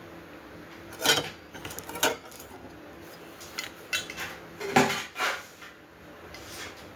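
Metal grill parts clanking and rattling as they are handled and fitted together during assembly: a string of sharp clanks, the loudest about a second in and just before five seconds in.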